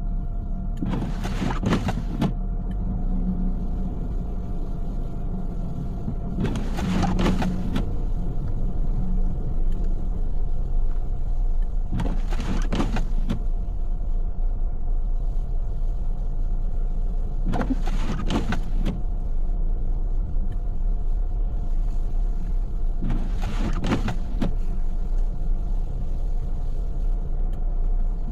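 Inside a car: steady engine and road rumble, with the windshield wipers sweeping at regular intervals about every five and a half seconds. Each pass is a short double swish.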